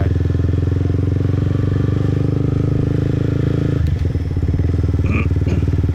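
Motorbike engine running steadily, close up, its note changing about four seconds in.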